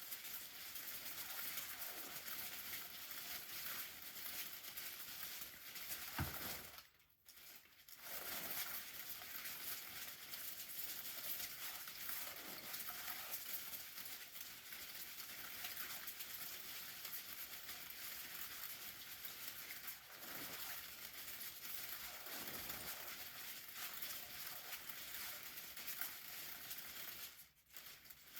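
Steady fine pattering, crackly noise on an umbrella, cutting out briefly about seven seconds in and again near the end.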